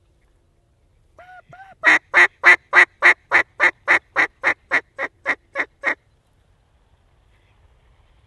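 Mallard duck call blown in a hail or greeting call: two soft lead-in notes, then a run of about fourteen loud, clipped hen quacks at about three and a half a second, slowly fading.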